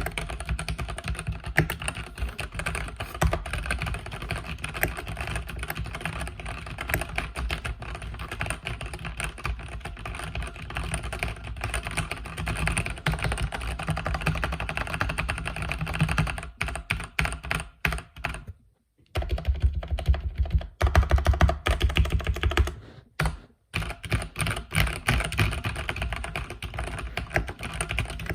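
Mechanical keyboard with red linear switches being typed on rapidly and continuously, a dense stream of key clacks that breaks off twice for a moment about two-thirds of the way through.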